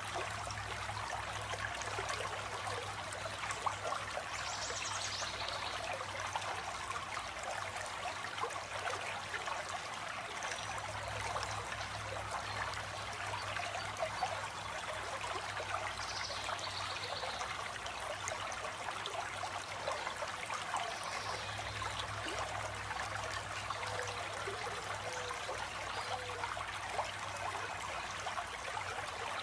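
A stream of water flowing and trickling steadily, with a few brief, high bird calls over it and a low rumble that comes and goes.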